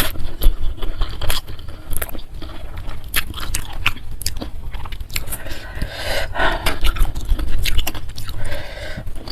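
Close-miked chewing and crunching of food in the mouth, with many short crisp clicks and wet mouth sounds, and a denser stretch of chewing about two-thirds of the way through.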